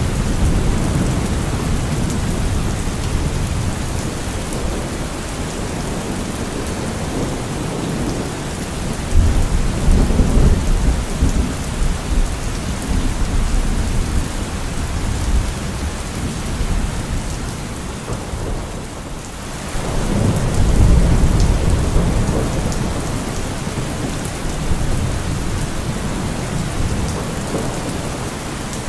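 Steady rain falling with thunder rumbling, low rolls swelling up about a third of the way in and again after two thirds.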